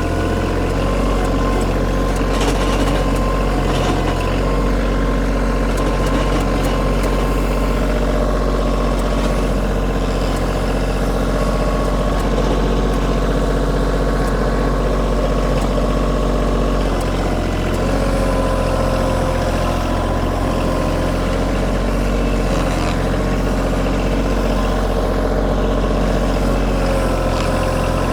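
Kioti compact tractor's diesel engine running steadily while working gravel on a driveway. Its note shifts a little past the middle.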